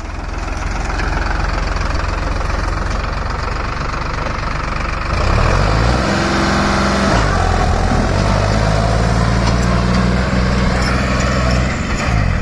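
Turbocharged Farmtrac 60 PowerMaxx tractor diesel engine, with its fuel turned up, opened to full throttle and running hard. It builds up over the first second, dips in pitch and climbs back about five to seven seconds in, then pulls steadily.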